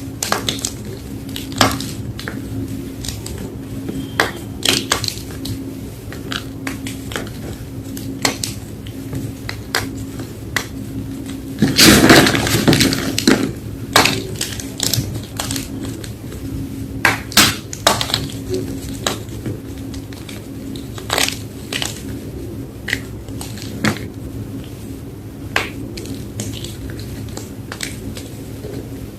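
Blocks of Reform gym chalk being crushed, with sharp crunches and crumbles scattered throughout and one longer, louder stretch of dense crunching about twelve seconds in. A steady low hum runs underneath.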